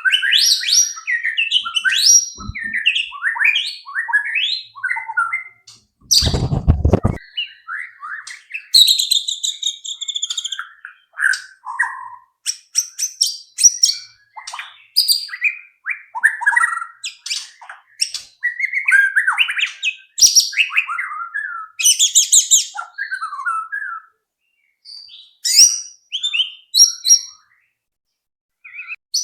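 White-rumped shama (murai batu) singing a long, varied song of short whistled and chirped phrases with brief pauses between them, with a short low thump about six seconds in.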